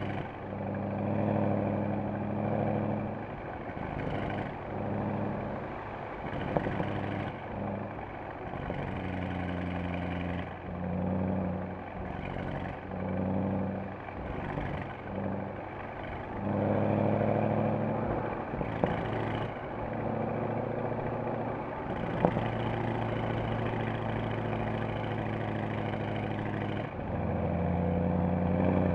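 Mercedes-AMG SL63's V8 running on the move, its exhaust note swelling and falling away again and again as the throttle is opened and closed. There are two short sharp cracks, about six seconds in and again about twenty-two seconds in.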